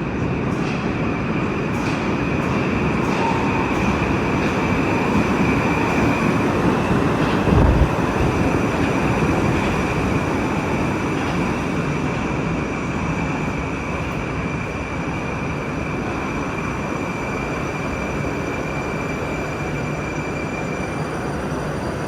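Moscow Metro train running along the track, a steady loud rumble of wheels and motors with a high wheel squeal that fades out near the end. A short low thump comes about a third of the way in.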